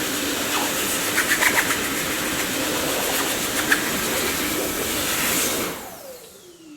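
Dyson vacuum cleaner running with a steady rushing noise and a few brief clicks. It is switched off near the end, and its motor whine falls in pitch as it spins down.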